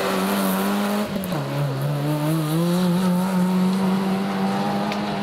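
Rally car engine running hard at high revs. Its note drops sharply about a second in, as on a lift or gear change, then climbs back up and holds high as the car accelerates.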